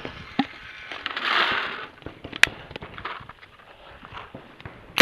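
Paintball markers firing single shots as sharp pops, a louder one about two and a half seconds in, over crackling and rustling, with a short rush of noise around a second and a half in. Right at the end a rapid string of marker shots begins, about ten a second.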